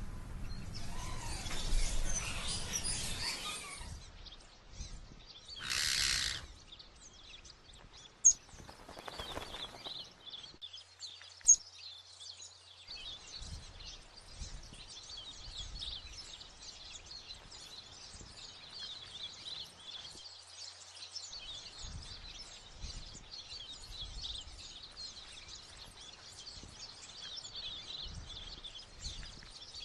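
Birds chirping over outdoor background noise, with many quick high chirps running together through the second half. A short loud rush of noise comes about six seconds in, and two sharp clicks follow a few seconds later.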